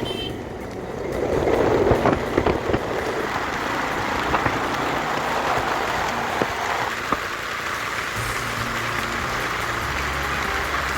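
Steady hiss of rain together with a vehicle travelling on a wet road, with a few sharp taps and clicks in the first few seconds.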